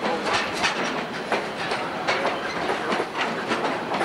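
Freight train of flatcars loaded with highway trailers rolling past close by: steel wheels clicking and clacking on the rails over a steady rumble, with irregular clanks from the cars several times a second.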